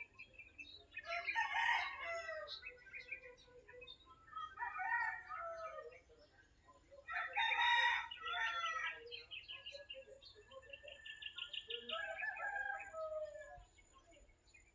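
Rooster crowing three times, the loudest about halfway through, with smaller birds chirping between and after the crows.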